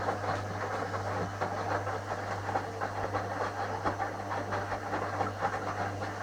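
Washing machine running: a steady low hum with a constant irregular clatter from the turning drum.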